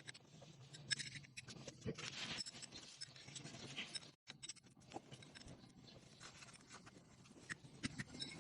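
Scattered light clicks, scratches and scrapes of small parts being handled, with a brief dropout to silence about four seconds in.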